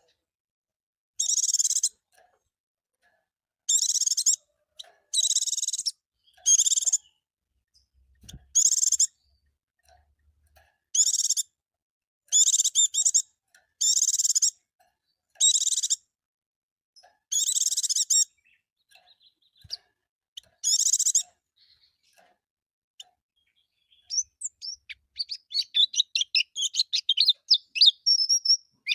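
Pleci (white-eye) singing: a string of short, high, warbled song phrases about a second long, separated by pauses of one to two seconds. Near the end it breaks into a fast, continuous twittering of quick notes.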